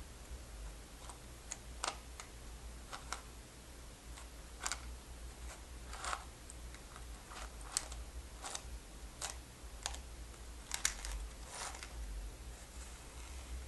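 Sparse, irregular light clicks and taps, about a dozen, some in quick pairs, from small hard objects being handled close to the microphone, over a low steady hum.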